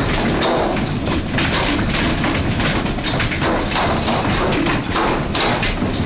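Hailstones pelting down on hard surfaces: a dense, unbroken run of thuds and knocks.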